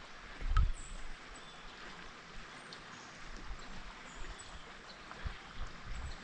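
Flowing river water rushing steadily around a kayak, with dull low bumps and one louder thump about half a second in.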